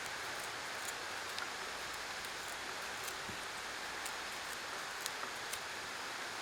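Steady even hiss of background noise, with a few faint, scattered ticks.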